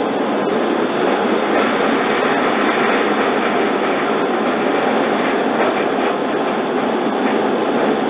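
Steady running noise of a JR 115 series electric train, heard from inside the carriage as it rolls along the track.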